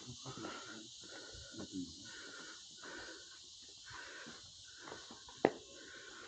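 Faint outdoor ambience with a steady high hiss and scattered soft indistinct sounds, broken by one sharp knock about five and a half seconds in.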